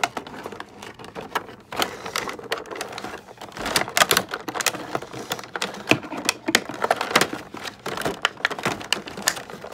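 Plastic toy packaging being handled: irregular clicking, crinkling and snapping of the plastic tray and ties as an action figure is worked out of its box.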